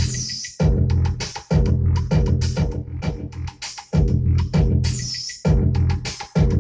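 A hard-hitting hip-hop drum break playing from a scratch record: heavy kick, snare and bass hits in a steady beat.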